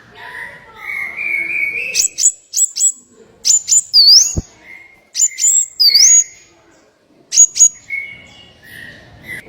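Small songbird calling: sharp, very high chips in quick groups of two or three, with a dipping whistled note twice, about four and six seconds in. Lower, drawn-out notes come before them, and there is one sharp click in the middle.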